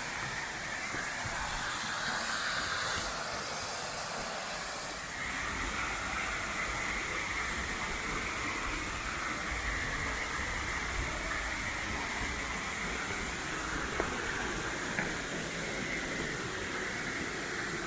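Waterfall rushing steadily: an even hissing roar of falling water that turns brighter and hissier for a few seconds starting about two seconds in. Two light ticks near the end.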